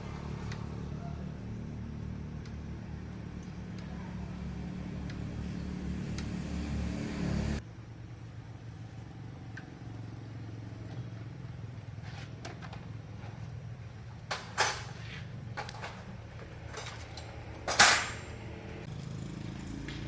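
An engine runs steadily, growing a little louder, then cuts off suddenly about seven and a half seconds in. Then come a few sharp metallic knocks, the loudest near the end.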